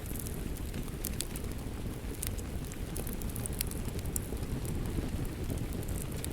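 Wood fire crackling with irregular sharp pops, a few each second at times, over a steady low rush of rain.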